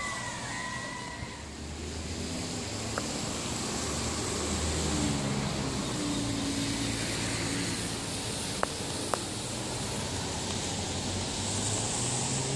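A motor vehicle's engine running, its low hum shifting in pitch over steady outdoor background noise.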